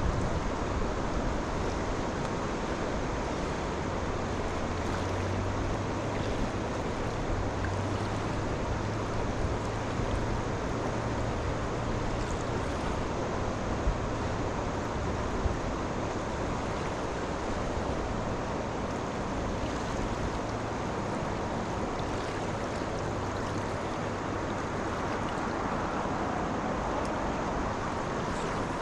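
Steady rushing of river water, an even wash of noise, with a faint low hum for a while in the first half and a couple of small clicks.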